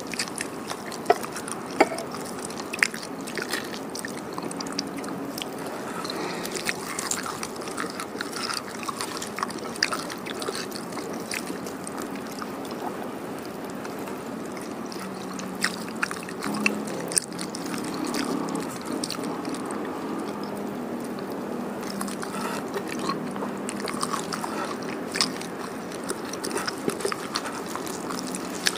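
Close-miked chewing and wet mouth sounds of a person eating pecel sayur (vegetables, fried tofu and rice cake in peanut sauce) by hand, with many scattered sharp clicks and smacks.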